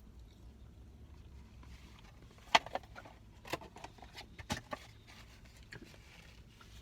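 A handful of short, sharp clicks and taps at irregular intervals over a faint low hum.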